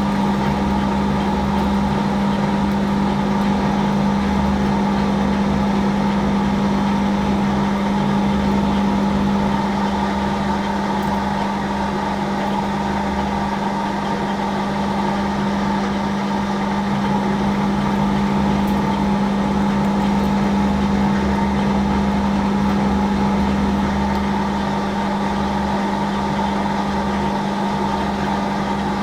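Hafco AL960B metal lathe running steadily while a drill bores a hole into the workpiece, giving a constant motor hum with cutting noise over it.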